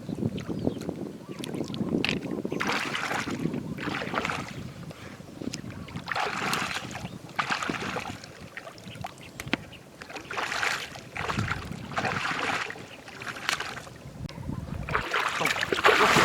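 Shallow floodwater sloshing and splashing in repeated swishes every second or two, over a low steady rush, growing loudest near the end.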